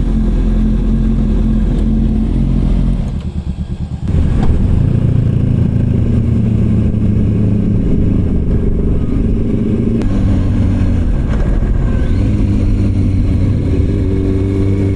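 Motorcycle engine running under way, with wind and road noise. About three seconds in it drops to a low pulsing beat for about a second, then pulls away again, and its pitch steps down about ten seconds in and changes again a couple of seconds later.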